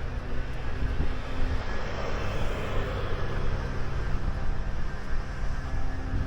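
A vehicle passing by over a steady low outdoor rumble, growing louder to a peak two to three seconds in and then fading.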